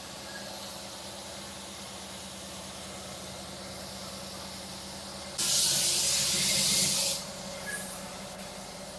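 A burst of compressed-air hiss from a pneumatic air gun, about two seconds long, starts suddenly about five seconds in and cuts off just as suddenly, over a steady low hum.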